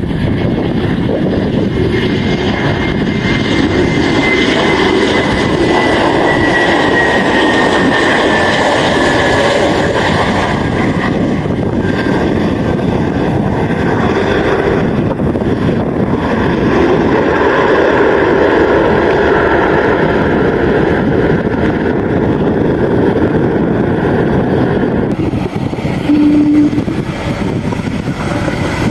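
Airliner engines running loud and steady, with a high whine that slowly falls in pitch over the first ten seconds.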